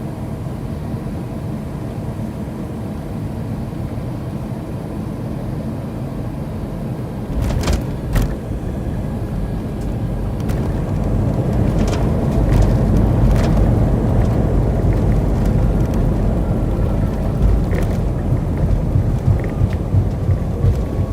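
Airbus A321 cabin noise on final approach, then the touchdown: two sharp thumps as the landing gear meets the runway about seven and eight seconds in. Then the noise grows louder as reverse thrust and braking slow the jet on the rollout, with rattles and knocks through the cabin.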